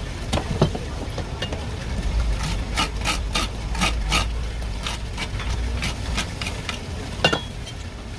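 Short sharp scrapes and knocks of a large sea bass being worked over on a cutting board, coming several a second in the middle and thinning out towards the end, with one louder knock near the end.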